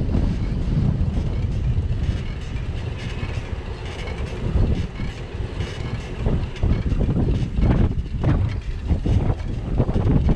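Wind rumble on a bicycle-mounted action camera's microphone while riding, with frequent knocks and rattles from the bike over the street surface.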